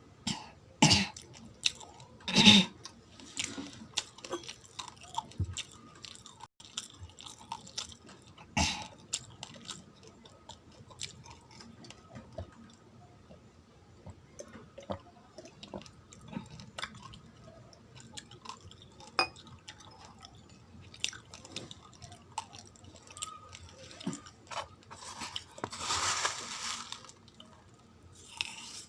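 A person chewing uncooked raw rice close to the microphone, the hard grains cracking in sharp crunches between steadier chewing. The loudest crunches come in the first few seconds and again near 9 s, and a rustling hiss comes near the end.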